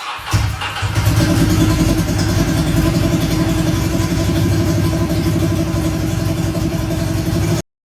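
Ducati L-twin motorcycle engine running steadily with rapid, even firing pulses. The sound starts suddenly and cuts off abruptly near the end.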